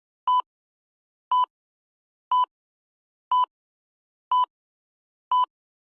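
Six short electronic beeps, one a second, each a steady two-tone blip: a quiz countdown-timer sound effect ticking off the time to answer.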